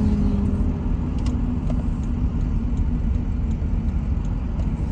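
Steady low rumble of a car driving along at road speed: engine and tyre noise heard from inside the cabin.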